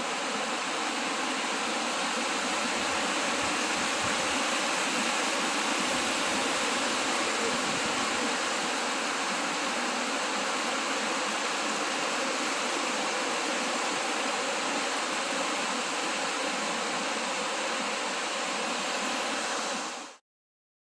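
Mountain-creek waterfall rushing steadily, an even, unbroken hiss of falling water; it cuts off abruptly near the end.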